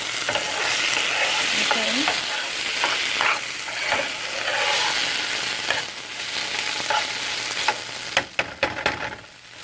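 Tomato paste, onions and bell peppers sizzling in an oiled pot as a little hot water is added to loosen the paste. The sizzle is strongest in the first few seconds and then dies down, and near the end a spoon clicks against the pot while stirring.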